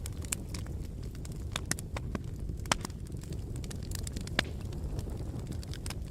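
Wood fire burning in a fireplace: a steady low rumble of flames with irregular sharp crackles and pops, the two loudest pops about a third and two thirds of the way through.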